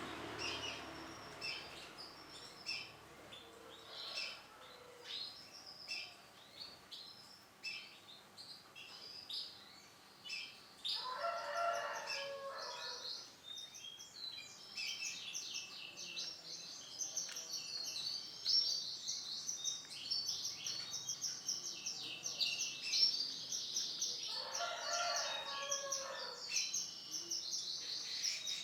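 Male canary singing: scattered high chirps at first, then a continuous, rapid warbling song from about halfway on. Twice a lower, drawn-out call sounds beneath the song.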